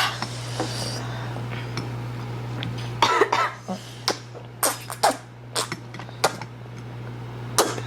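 People eating fiery-hot spicy noodles, with a run of short, sharp coughs and mouth noises from about three seconds in, set off by the spice. A steady low hum runs underneath.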